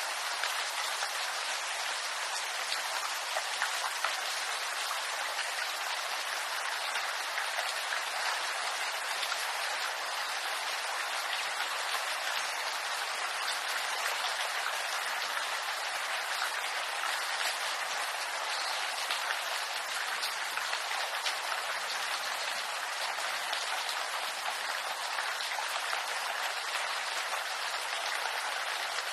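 Steady rain falling on bamboo leaves: a dense, even patter of drops with no let-up.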